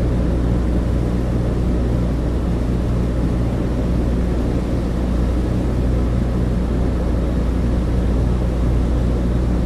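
Cabin interior of a Douglas DC-3: the steady drone of its two radial piston engines and propellers, a deep even hum with a rushing hiss over it.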